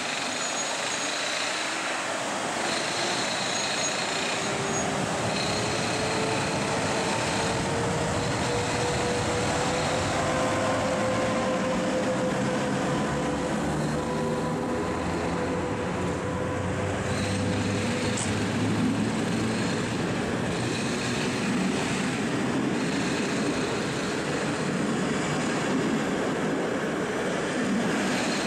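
Electric passenger train moving through the station: steady rolling and rail noise with a motor whine that rises slowly in pitch over the first half, then a deeper rumble building in the second half.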